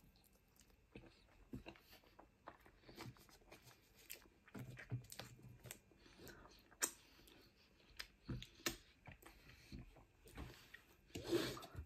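Quiet chewing of battered fish, with soft mouth sounds and scattered light clicks and taps of a fork picking at the fish and chips; a sharper tap comes about seven seconds in.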